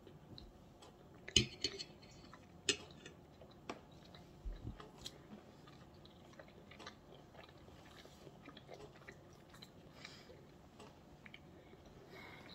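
A person chewing a mouthful of sausage and olives, faintly, with a few sharp clicks in the first three seconds.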